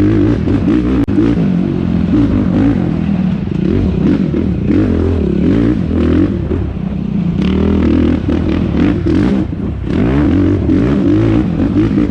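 Yamaha YFZ450R quad's single-cylinder four-stroke engine at race pace, its pitch rising and falling again and again as the throttle is opened and chopped.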